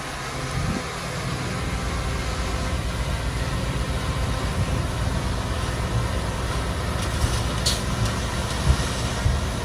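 Diesel engine of heavy earthmoving machinery running steadily with a deep rumble, with a few knocks and a short hiss near the end.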